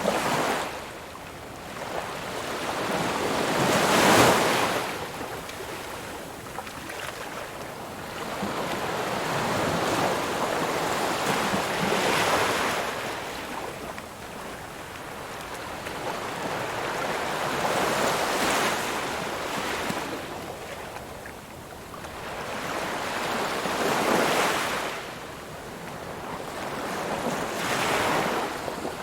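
Ocean waves breaking on a shore: the surf hisses and swells into a crash about every four to eight seconds, with the loudest wave about four seconds in.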